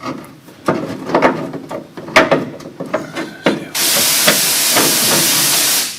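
Knocks and clatter of parts being handled, then a loud, steady hiss starting about two thirds of the way in, lasting about two seconds and cutting off abruptly.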